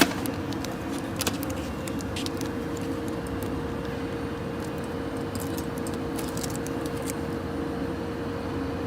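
Box tape-applying machine running idle: a steady hum with a constant tone, with a few light clicks now and then.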